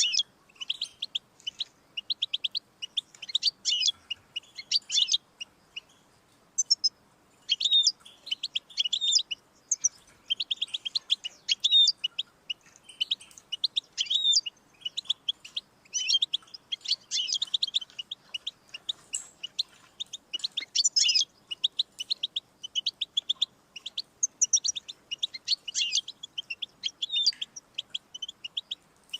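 European goldfinch singing: a long string of fast, high twittering phrases broken by short pauses.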